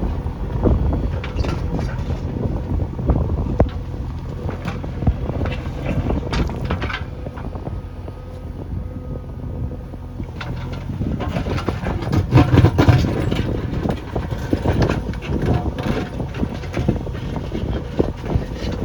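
Backhoe loader's diesel engine running while working, with wind buffeting the microphone and scattered knocks throughout.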